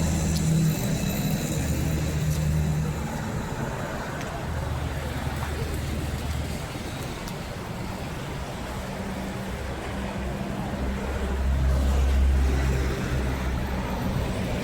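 A motor vehicle running: a low engine hum that swells and fades, over steady road noise, loudest about twelve seconds in.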